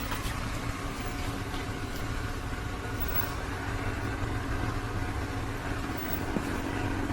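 A steady low mechanical hum, with a few faint clicks in the first second or two.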